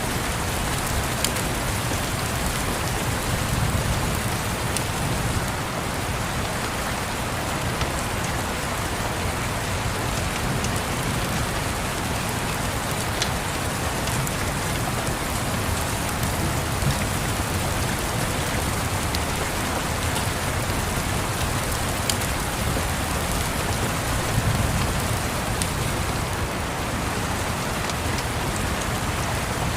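Steady rain pattering on a surface, with a few sharp crackles from a wood fire scattered through and a low rumble swelling twice.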